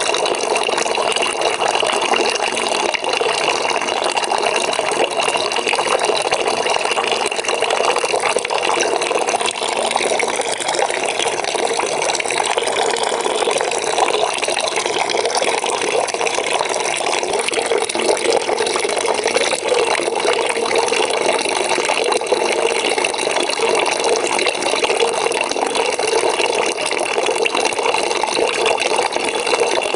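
Water from a tap pouring steadily into a bucket, an even splashing rush with no break.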